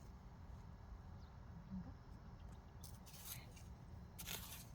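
Quiet soil-digging sounds: faint, short scraping rustles in the dirt, twice near the end, from sweet potatoes being dug out by hand with a small hand hoe.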